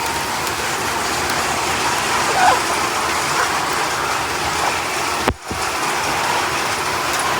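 A flock of Cobb broiler chickens pecking at feed, making a steady dense patter, with a few faint cheeps. A sharp click and a brief gap come about five seconds in.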